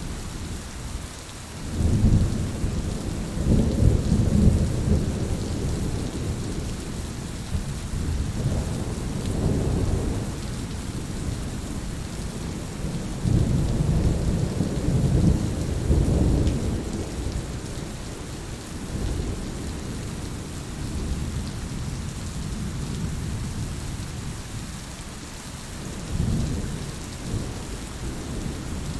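Steady rain with rolling rumbles of thunder that swell and fade several times, the loudest about two to five seconds in and again in the middle.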